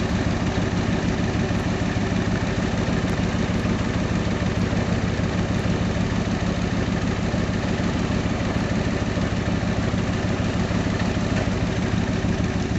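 1965 Ford F600 tow truck's engine idling steadily.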